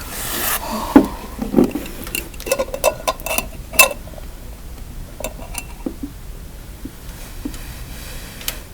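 Light clicks, knocks and scrapes of a jar being handled and opened to take a spider out, busiest in the first four seconds, then only a few faint ticks.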